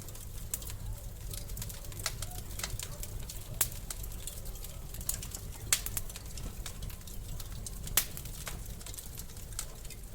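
Wood fire crackling: frequent sharp pops and snaps, with a few louder cracks about three and a half, five and a half and eight seconds in, over a low steady rumble of the flames.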